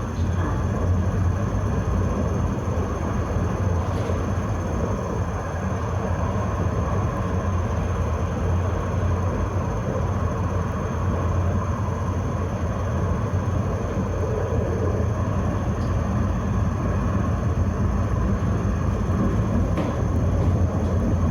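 Tram running along the track, heard from on board: a steady low rumble with a few faint clicks.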